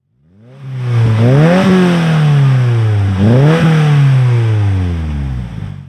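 Car engine revving twice: its pitch climbs quickly, then falls slowly back down, two times over, before the sound fades away.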